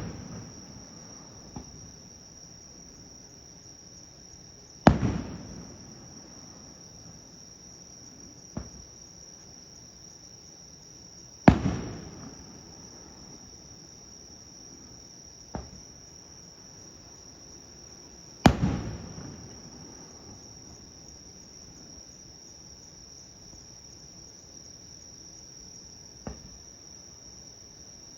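Aerial fireworks shells bursting, with a loud boom every six to seven seconds that dies away in a rolling echo, and fainter single sharp pops in between. A steady high-pitched insect chirring runs underneath.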